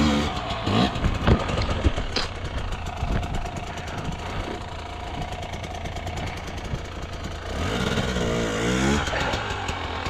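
Dirt bike engine running at low revs, with a few sharp knocks in the first two seconds and a rev that rises and falls about eight seconds in.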